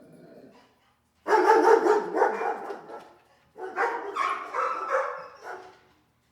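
A dog barking in two loud bursts of quick, pitched calls. The first burst starts about a second in, and the second follows after a short pause.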